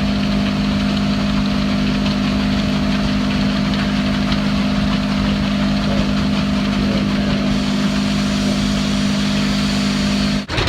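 An engine running steadily at an even speed with a deep, constant hum, cutting off abruptly near the end.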